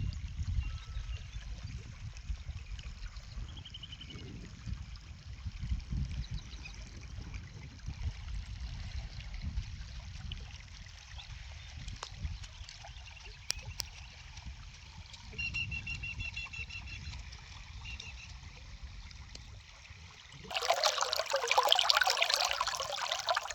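Flowing water outdoors, with a low, uneven rumble underneath and a few short bird chirps, including a quick run of repeated high notes around the middle. About 20 seconds in, it switches suddenly to much louder rushing, splashing water.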